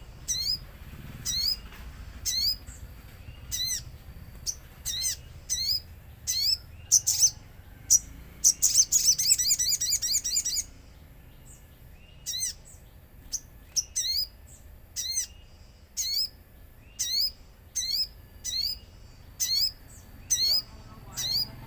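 Sogon songbird calling: short, sharp high chirps repeated about once a second, breaking into a loud rapid trilling chatter for a couple of seconds around the middle.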